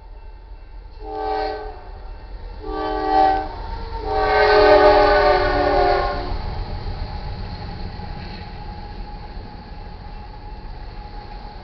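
Locomotive air horn on a GE AC44CW sounding three times: two shorter blasts, then a longer, louder one about four seconds in. A steady low rumble of the passing freight train runs underneath and carries on after the horn stops.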